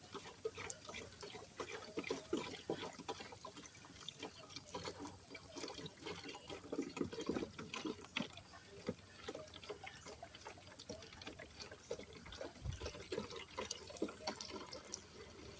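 Water being run into a soap jug, trickling and splashing irregularly as the jug fills.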